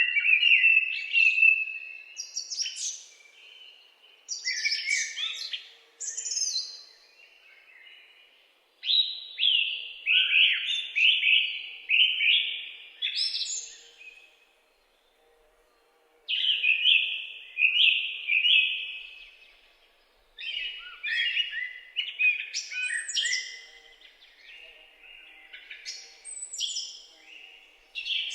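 Songbirds singing: a series of quick chirping phrases, each a second or a few seconds long, with short pauses between them and a brief silent break about halfway through.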